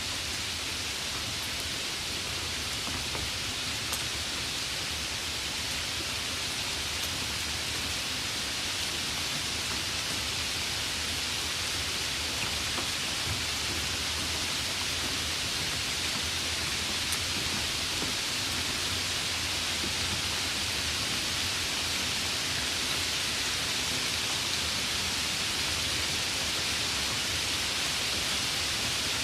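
Steady rain falling, an even dense hiss with now and then a sharper drop tick.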